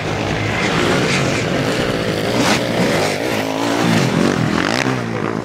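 Several sidecar motocross outfits' engines revving together, their pitch rising and falling with the throttle.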